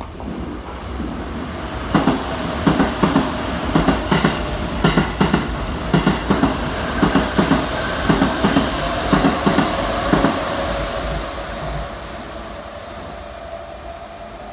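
Keikyu 600-series eight-car limited express passing through a station without stopping, its wheels clacking in regular groups over the rail joints for about eight seconds. The running noise then fades away, leaving a steady whine.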